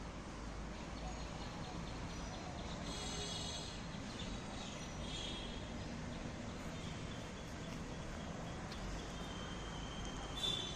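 Outdoor ambience: a steady background hiss with a few short bird chirps about three seconds in, about five seconds in, and again near the end.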